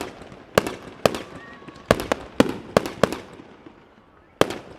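Aerial firework shells bursting in an irregular run of sharp bangs, each with a short echoing tail. A brief lull comes near the end, then one more bang.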